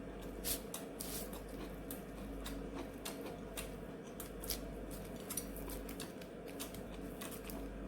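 Brown rice being spread over a nori sheet on a bamboo kimbap mat: many soft, irregular little clicks and taps, several a second.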